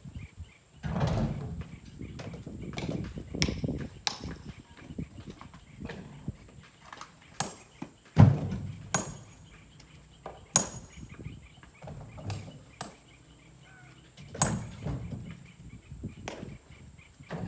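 Irregular knocks and thumps, a dozen or so at uneven intervals, the loudest about eight seconds in.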